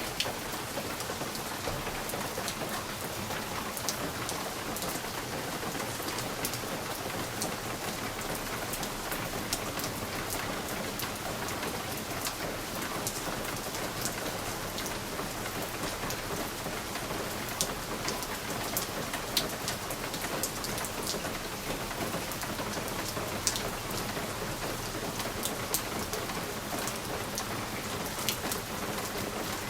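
Steady rain falling on a window, a continuous hiss with many sharp drop ticks against the glass scattered throughout.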